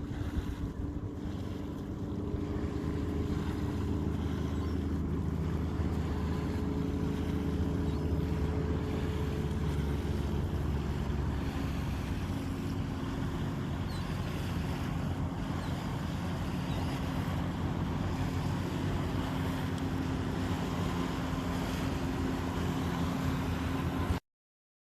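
An engine running steadily with a low hum that drifts slightly in pitch, mixed with a steady rushing noise and wind on the microphone.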